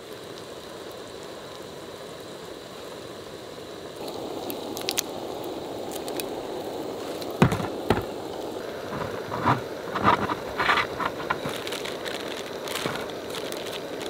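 Handling a wine bottle on a plastic crate table: two sharp knocks a little past halfway, then a run of clicks and scrapes as a lever corkscrew is worked onto it, over a steady background hiss.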